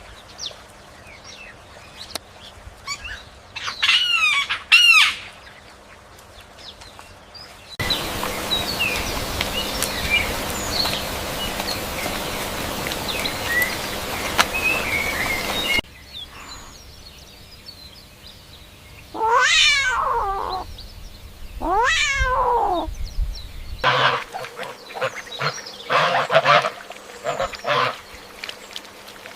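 Cat meows in separate spliced clips: two short high meows about four seconds in, and two longer falling meows around twenty seconds in. Between them is a stretch of steady noise with faint chirps, and near the end come further short calls.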